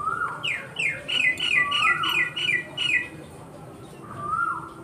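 Birds calling: a call that rises and then drops sharply, heard three times, and a quick run of about eight short falling notes, about three a second, that stops about three seconds in.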